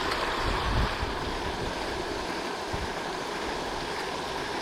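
Steady rushing splash of a pond fountain's spray, with low wind buffeting on the microphone about half a second to a second in.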